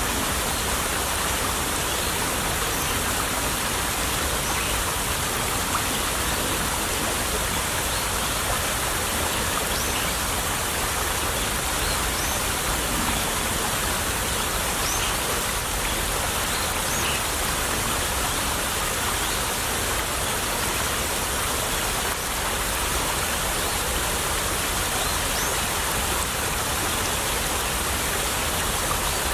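Small stream of water trickling and babbling over stones, a steady unbroken flow.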